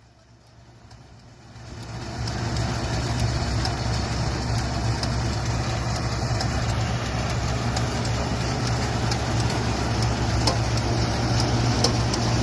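Tractor engine running steadily, fading in over about the first two seconds, with faint scattered clicks.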